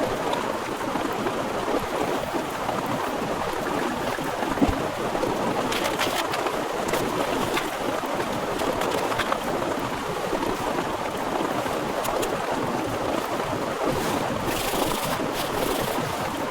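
Heavy rain falling steadily, a dense even patter with a few sharper drop hits and a brief brighter hiss near the end.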